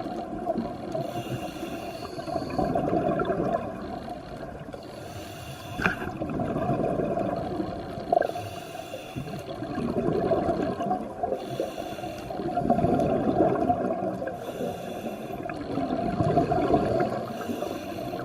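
Underwater rushing and bubbling water noise that swells and fades every three to four seconds.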